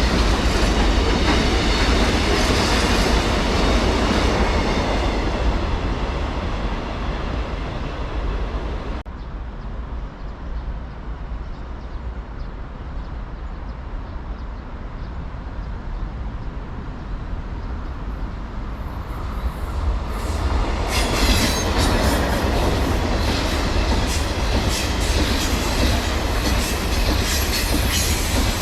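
Train running past on the rails, with a loud rumble and clatter of wheels on track. The noise fades, drops off suddenly about nine seconds in, then builds again to a loud train pass about twenty seconds in.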